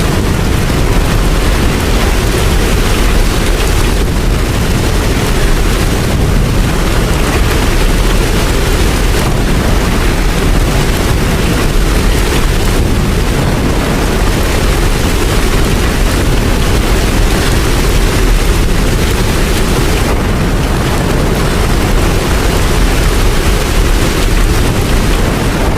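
Steady heavy rain with a deep, continuous low rumble underneath.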